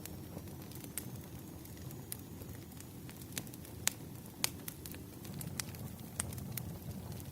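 Wood fire crackling: irregular sharp pops and snaps over a steady low rumble, with the two loudest pops around four seconds in.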